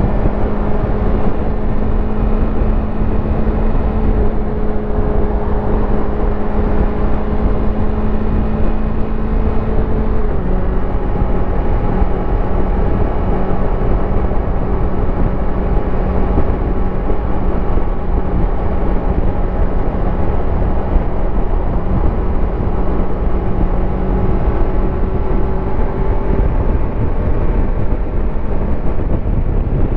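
Yamaha YZF-R25's parallel-twin engine and exhaust cruising at steady highway speed, heard from on board the motorcycle. The engine note drops slightly about ten seconds in and then holds steady over a constant rush of wind and road noise.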